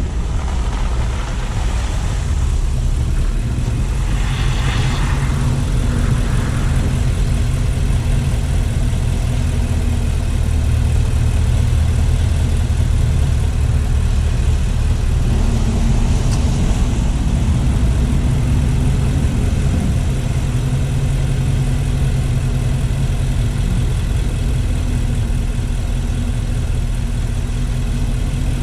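Car engine running with a steady low rumble and road noise while driving, with brief swells of passing noise about four seconds in and again about sixteen seconds in.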